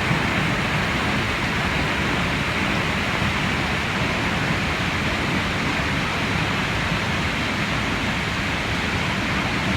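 A tall plunge waterfall pouring: a steady, unbroken rush of falling water.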